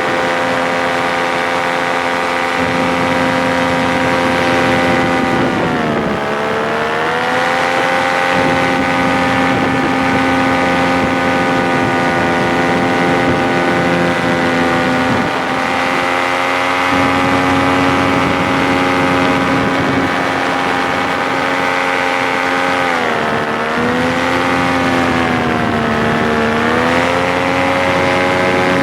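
Paramotor engine and propeller running steadily under power. The pitch dips and recovers about six seconds in, then dips twice more near the end as the throttle is eased off and opened again.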